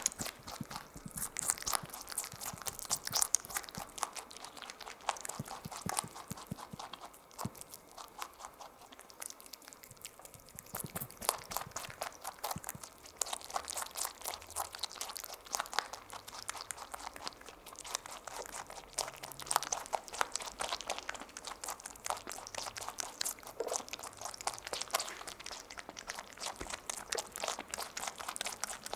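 Small rabbit chewing a grape: a rapid, continuous run of small wet chomping and crunching clicks, recorded close up.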